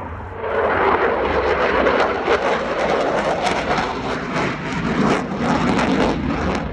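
Eurofighter Typhoon fast jet flying a display pass, a loud jet roar with crackle that swells about half a second in and holds.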